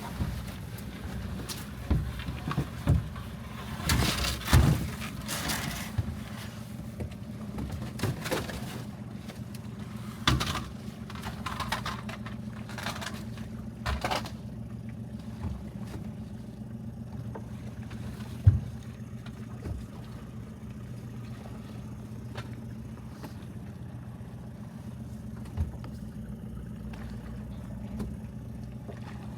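A skiff's outboard motor idling steadily, with knocks, thuds and scrapes of heavy loads being handled, dense in the first half. The loudest is a single sharp knock about 18 seconds in.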